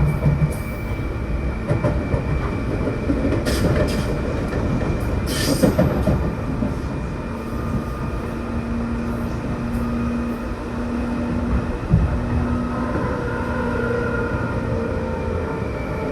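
Seibu New 2000 series electric train running: a steady rumble of wheels on rail under a constant high tone, with a few sharp clacks a few seconds in. Near the end a whine glides slowly in pitch.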